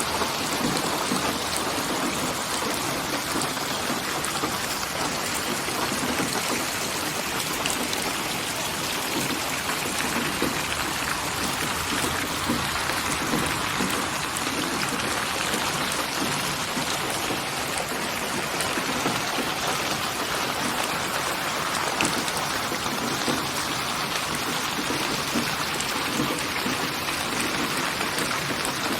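Steady rain falling, a dense, even hiss of raindrops used as white noise.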